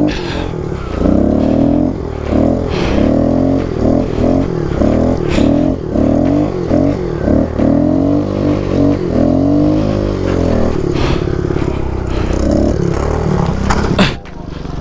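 Kawasaki KLX110 pit bike's small four-stroke single-cylinder engine revving up and falling back again and again under throttle, about a dozen surges in a row. There is a sharp knock near the end.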